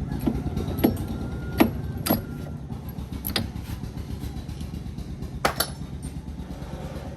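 Sharp metallic clinks and taps, about six of them spread unevenly, over a steady low machine rumble.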